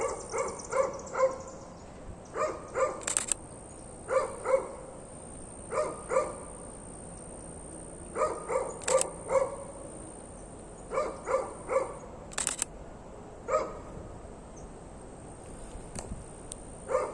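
Dog barking repeatedly, in short runs of two to four barks every second or two. A few sharp clicks are heard among the barks.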